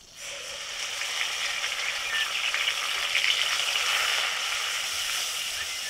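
Onion paste sizzling in hot ghee and oil in a metal karahi. It starts suddenly as the paste hits the fat just after the start, then holds steady as it is stirred with a steel spatula.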